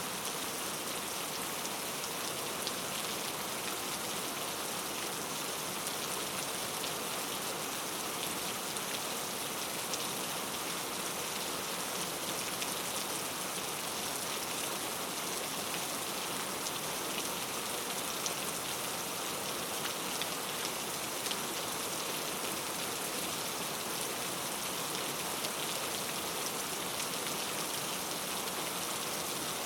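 Steady rainfall in a forest: an even hiss of rain with a dense patter of individual drops striking leaves and surfaces.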